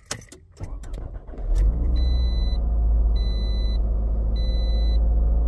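2008 Scion xB's 2.4-litre four-cylinder engine starting after a few clicks, catching about a second and a half in and then idling steadily. A dashboard warning chime repeats about once a second over it.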